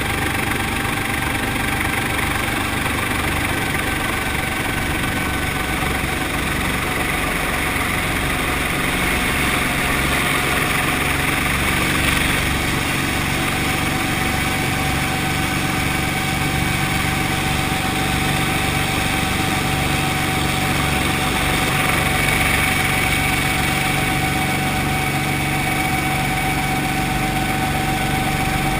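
Brantly B2B helicopter's four-cylinder Lycoming piston engine and rotor running steadily: a low pulsing drone with a thin steady whine above it.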